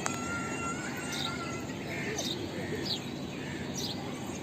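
House sparrows chirping: short, high, falling chirps about once a second over a steady background hiss. A thin steady whine is also there during the first second.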